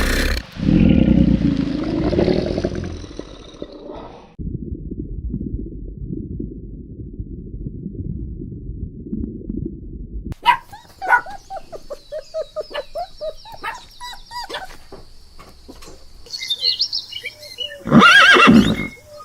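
Several different animal calls in turn: a loud call at the start, a low rumbling stretch, then a run of short repeated calls with high chirps over them and one loud call near the end.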